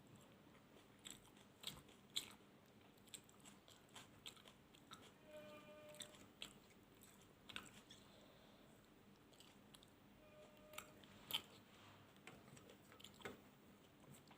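Close-miked eating sounds: chewing and biting, with irregular soft crunches and clicks from the mouth. A brief faint steady tone comes about five seconds in and again near ten seconds.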